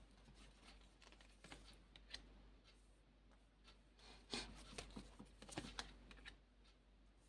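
Faint rustling and light taps of playing cards being handled and laid down, a few soft clicks scattered through, the most distinct about four seconds in and a small run of them a second or so later.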